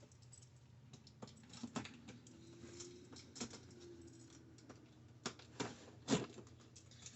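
Faint, irregular clicks and taps of cardboard box packaging being handled and opened.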